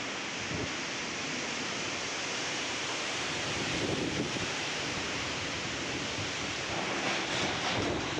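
Storm wind and heavy rain: a steady rushing noise, with gusts buffeting the microphone.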